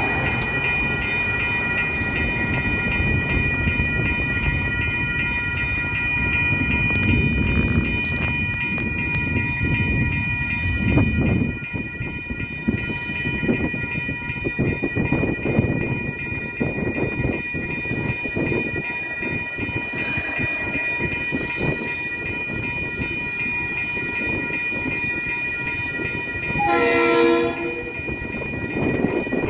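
Level crossing alarm bell ringing steadily over the low rumble of approaching GE U26C diesel-electric locomotives (DX class). About 27 seconds in, a locomotive horn sounds one blast of about a second.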